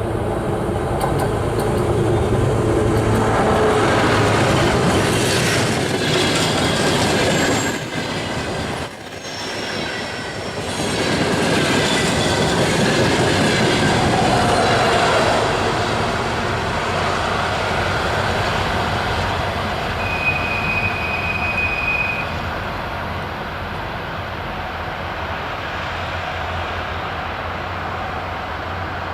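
Freight train hauled by a 2M62UM diesel locomotive passing, its wagons' wheels clattering and squealing on the rails; louder over the first half, then a steadier rumble. About twenty seconds in there is a brief high, steady squeal.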